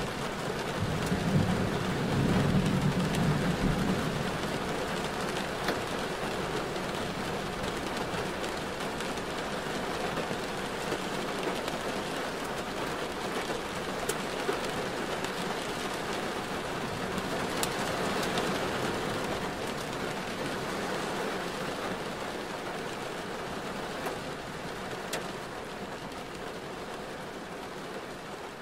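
Steady rain noise while driving: rain on the car with wet-road hiss. A low rumble swells about a second in and dies away a few seconds later, and the rain noise grows quieter near the end.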